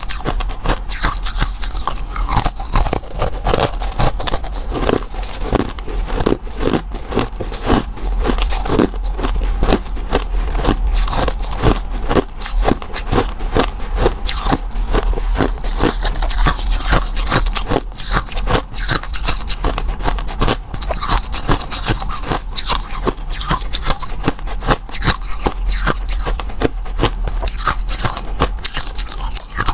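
Close-miked crunching and chewing of a frozen treat: a dense, uneven run of crackles and scrapes, over a steady low hum.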